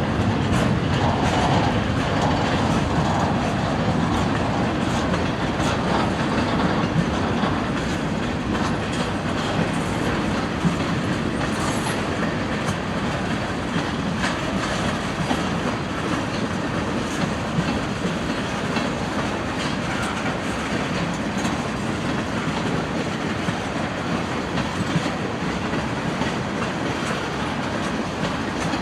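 Freight train cars rolling past at steady speed, the wheels clicking over rail joints with a constant rumble of the train.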